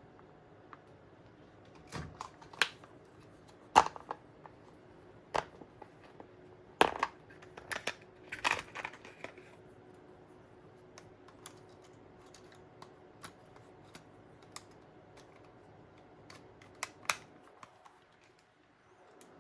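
Irregular sharp plastic clicks and clacks from a Sony WM-51 cassette Walkman being handled and operated, loudest around four and seven seconds in, over a faint steady hum.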